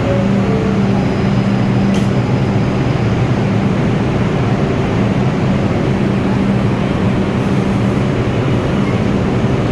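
An R142 subway train in the station gives a steady low hum over a constant rumble, with the level unchanging throughout.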